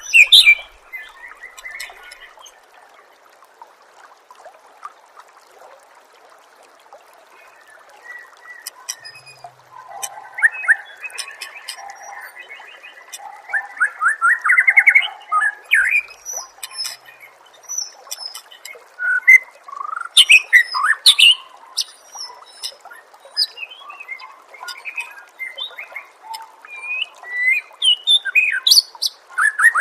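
Songbird singing a varied run of clear whistles, chirps and rapid trills. It is quieter for a few seconds near the start, then gives dense, loud phrases, including a fast rising trill about 14 seconds in.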